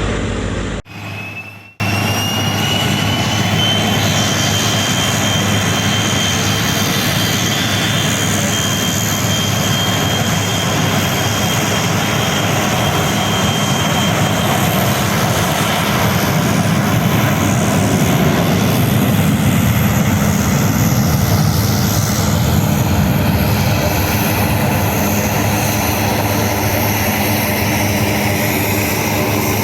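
Embraer 145 regional jet's Rolls-Royce AE 3007 turbofans running at high power on its takeoff, a loud steady roar. After a brief cut about a second in, a high whine rises slightly, holds, and fades about halfway through.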